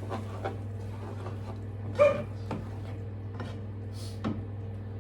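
A dog gives one short bark about two seconds in, over a steady low hum and a few small kitchen clicks.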